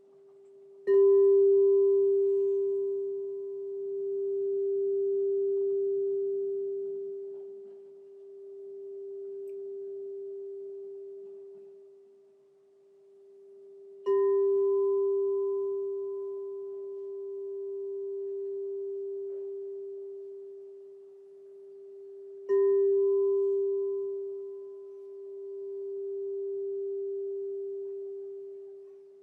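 Crystal singing bowl struck three times, about a second in, about fourteen seconds in and about twenty-two seconds in. Each strike rings one long pure tone with a fainter higher overtone, its loudness slowly swelling and fading in waves as it dies away.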